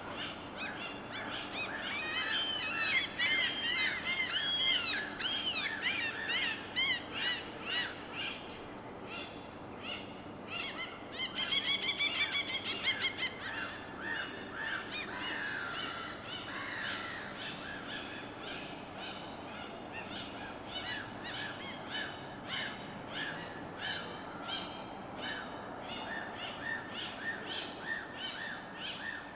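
Birds calling over a steady hiss of water: a dense flurry of arching calls about two seconds in, a louder drawn-out call with a rich, layered tone around eleven seconds, then short calls repeated about twice a second.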